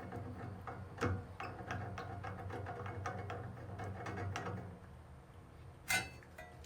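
Quick light clicking and rattling of hard parts being handled or turned, for about four and a half seconds, then one sharp knock about six seconds in.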